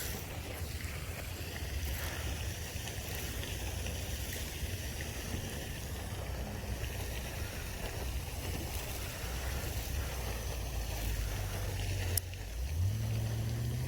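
A steady low rumble, then near the end a sharp click followed by an engine rising in pitch as a vehicle accelerates.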